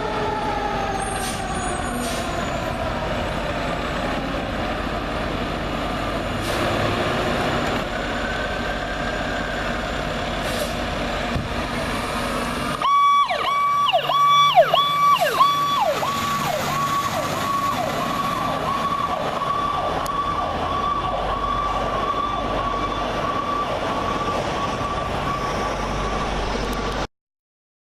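Fire apparatus sirens on a response run. A wailing siren winds down in pitch over the first few seconds. About halfway through, another siren starts a fast yelp, sweeping down and back up about twice a second, and keeps going until the sound cuts off abruptly near the end.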